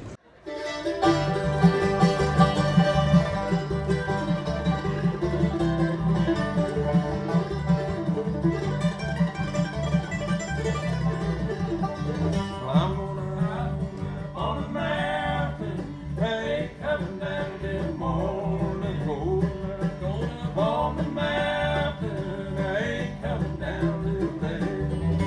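Bluegrass band playing, with plucked strings, starting abruptly; a voice sings over it from about halfway through.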